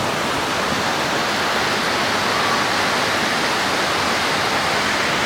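Heavy tropical downpour falling on roofs: a steady, unbroken hiss of rain.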